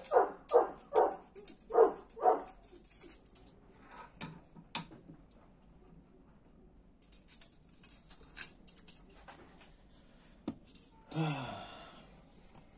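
A dog barking about six times in quick succession, followed by a few sharp clicks and a short falling sound near the end.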